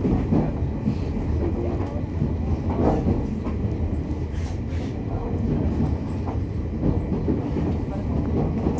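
Running noise heard inside a JR East E501 series electric train's motor car: a steady low rumble from the wheels and underfloor, with light clicks from the rails.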